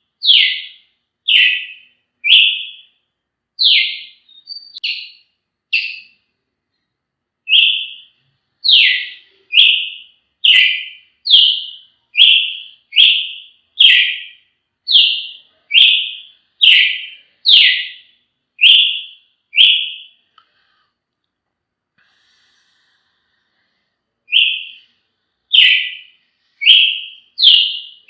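Brazilian tanager (tiê-sangue) singing a long series of short, sharp whistled notes, a little over one a second, with a pause of about four seconds past the middle before the notes resume.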